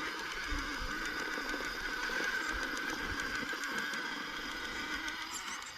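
Electric motor and gear drive of a shaft-driven RC rock crawler whining steadily as it climbs, with wind rumbling on the microphone.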